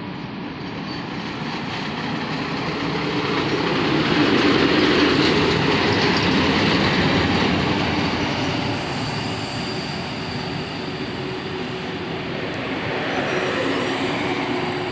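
Red SBB Re 4/4 II electric locomotive and its string of passenger coaches rolling past close by. The sound grows louder as the locomotive comes up and passes, about four to seven seconds in, then settles into the steady rolling of the coaches going by.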